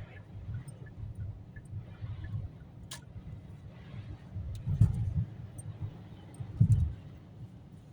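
Car interior road noise while driving on a snowy highway: a low, uneven rumble of tyres and engine, with two heavier low thumps about five and nearly seven seconds in and a single sharp click about three seconds in.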